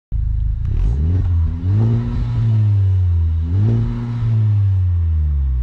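Honda Civic Type R's K20 four-cylinder engine heard through a new stainless Injen exhaust, revving up twice and then holding a steady note.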